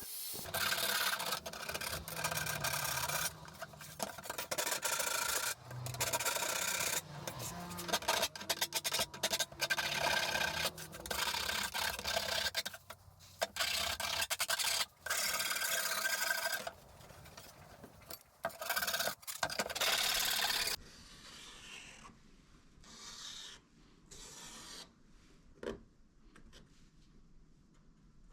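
Hand filing or abrasive rubbing on 1 mm stainless steel sheet: loud rasping strokes, each a second or two long, in an irregular series that stops about three-quarters of the way through, leaving only a few faint scrapes.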